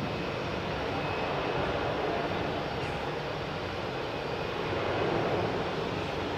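Jet airliner engines heard as a steady noise that swells slightly about five seconds in.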